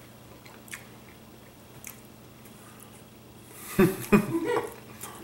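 A person chewing a mouthful of pasta and meatball, with a few faint wet mouth clicks. About four seconds in comes a short run of closed-mouth voice sounds through the full mouth.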